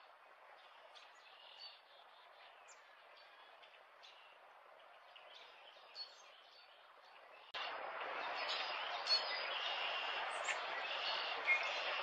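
Small birds chirping in short, high, scattered calls over outdoor background noise, which steps up sharply louder about seven and a half seconds in.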